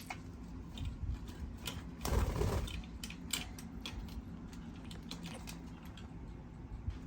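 Pet birds biting and tearing at leafy greens and tough bok choy stalks: a scatter of small beak clicks and crunches, with one louder, longer scuffle about two seconds in.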